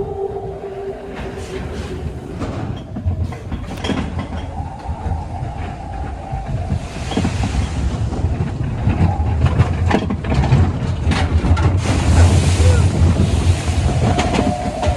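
Matterhorn Bobsleds roller-coaster car running along its steel track: a continuous low rumble with irregular clattering of the wheels, and a couple of bursts of hissing noise.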